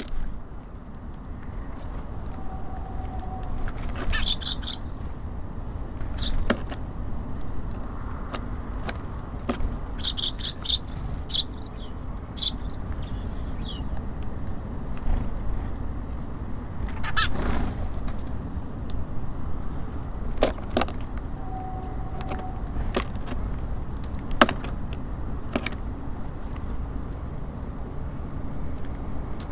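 Small birds at a feeder: a few short clusters of high chirps, and scattered sharp taps and knocks on the feeder, over a steady low rumble of city traffic.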